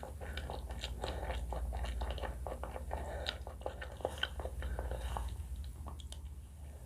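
Close-miked chewing and biting of sushi and salad, with wet mouth clicks and crisp crunches that thin out about five seconds in, over a steady low hum.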